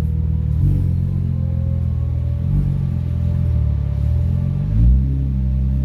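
2001 Audi S4's 2.7-litre twin-turbo V6 idling through its aftermarket full exhaust, with a few short rises in revs, the biggest near the end.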